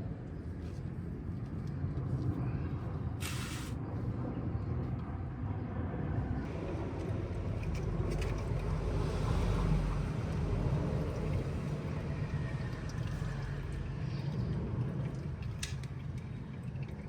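A steady low mechanical hum of a motor running, with a short burst of hissing about three seconds in.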